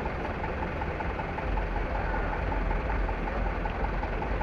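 Truck engine running, a steady low rumble that grows louder about a second and a half in.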